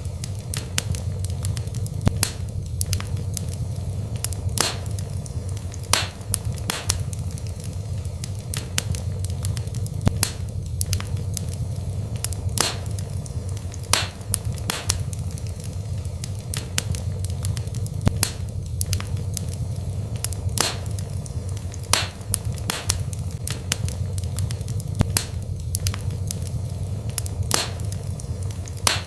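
Wood fire burning in a fireplace: a steady low rumble of flames with irregular sharp crackles and pops from the burning wood, about one or two a second.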